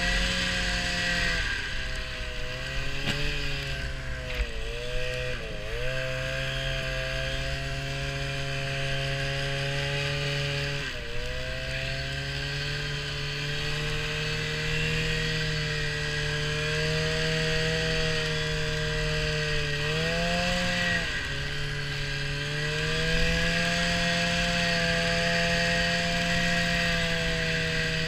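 Small motor vehicle's engine running at a steady pitch while riding, dipping briefly and recovering several times as the throttle eases off and comes back on.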